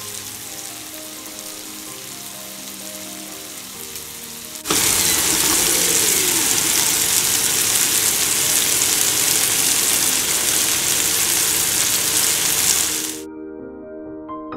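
Marinated chicken thighs and chopped onion frying in oil in a pan, a steady sizzle. About five seconds in the sizzle jumps much louder for about eight seconds, then cuts off suddenly.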